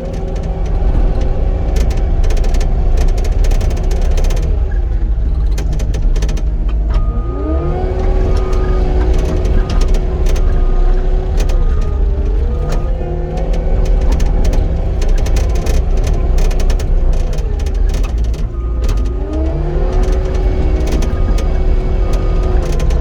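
Cat 259D compact track loader's diesel engine and hydraulics working under load, with short clicks and rattles throughout. The pitch sags about five seconds in and climbs back, dips briefly near halfway, and sags and recovers again a few seconds before the end.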